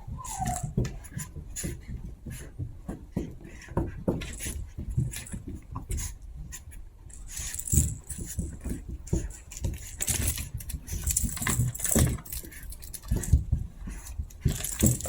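Chihuahua puppies scuffling at play: a steady scatter of irregular taps, clicks and soft thumps, with no barks or whimpers.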